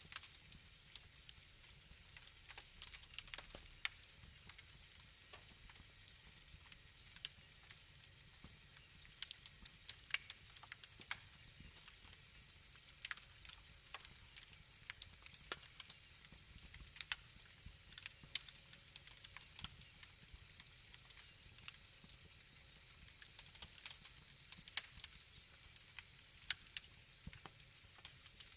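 Wood fire crackling: irregular sharp pops and snaps, some louder than others, over a faint steady hiss.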